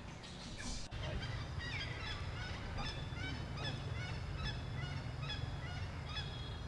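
A bird calling over and over, short high falling notes about two to three a second, over a steady low rumble.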